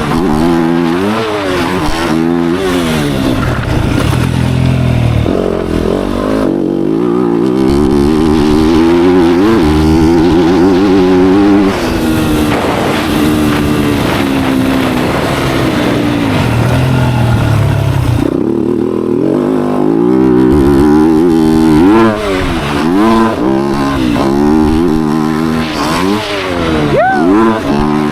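Dirt bike engine being ridden hard, its revs rising and falling over and over as the rider accelerates, shifts and backs off.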